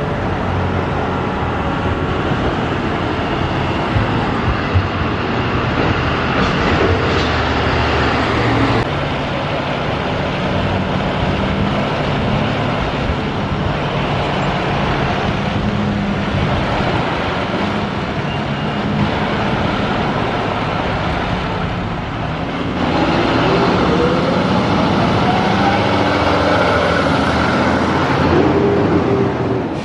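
Fire trucks responding: heavy truck engines and road noise, with a siren rising in pitch and getting louder about two-thirds of the way through.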